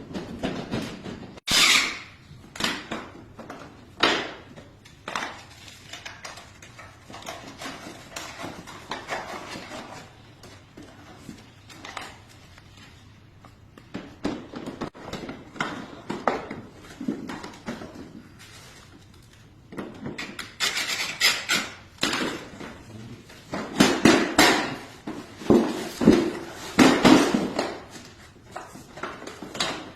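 Irregular clinks, clatters and knocks of hard objects being handled, scattered at first and coming thicker and louder for several seconds near the end.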